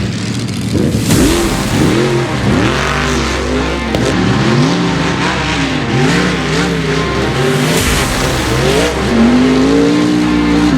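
Mega mud truck engines revving hard, the pitch surging up and falling back over and over, then held high for a longer pull near the end.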